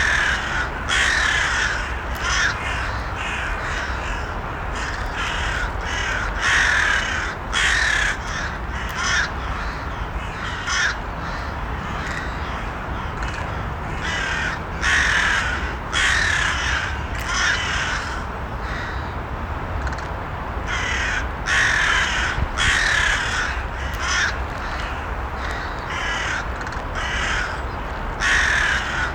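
Crows cawing over and over, harsh calls coming in runs of several caws with short gaps between runs. A steady low rumble lies underneath.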